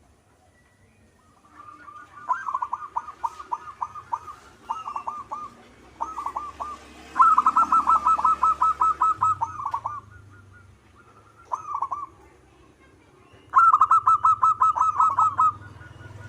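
Zebra dove (perkutut) singing: phrases of rapid, repeated cooing notes, six phrases separated by short pauses, the longest about three seconds in the middle, starting about two seconds in.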